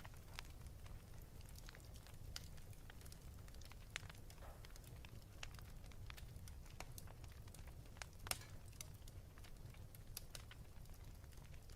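Wood fire crackling in a fireplace: irregular sharp pops and snaps over a faint low steady rumble, with two louder pops, one about four seconds in and one a little past eight seconds.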